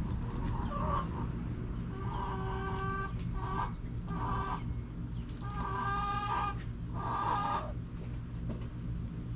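Backyard chickens calling: a run of drawn-out, pitched calls, some broken into short parts, between about two and eight seconds in, over a steady low rumble.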